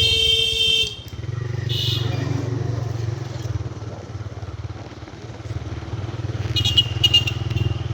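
Motorcycle engine running steadily while riding along a road. A loud pitched tone, like a horn, sounds for about a second at the start and briefly again about two seconds in, and a few short high-pitched sounds come near the end.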